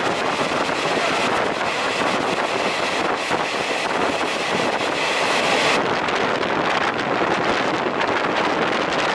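Steady rushing noise of an old open-window passenger coach on the move: wheels running on the rails, with wind blowing in through the open windows. About six seconds in, the sound turns duller as its high hiss drops away.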